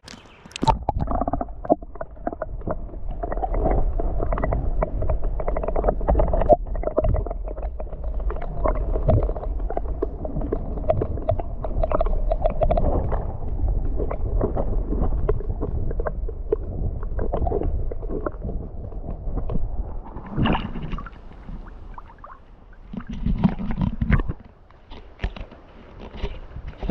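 Action-camera microphone held under river water: a muffled underwater rumble and gurgle, dotted with small clicks and knocks, that breaks up into separate bursts over the last few seconds.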